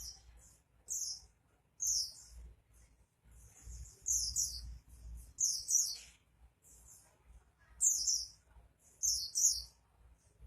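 A white-eye (pleci) singing vigorously: a string of short, very high-pitched twittering phrases, each under a second long and coming about a second apart.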